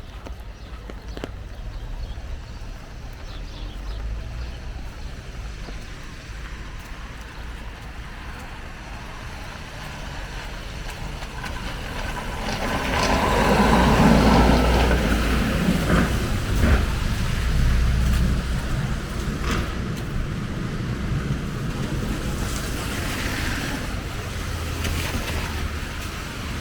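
Wet-street ambience with a motor vehicle passing, its sound swelling about halfway through and easing off, over a steady low rumble and a few scattered knocks.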